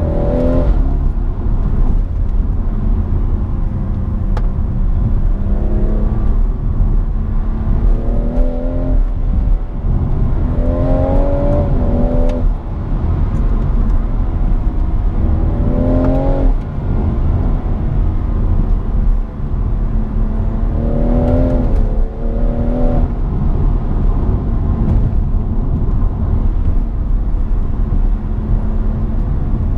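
BMW M240i's turbocharged straight-six heard from inside the cabin under hard acceleration: the engine note climbs in pitch and falls away sharply about four times, as at upshifts, over a steady low road and tyre rumble.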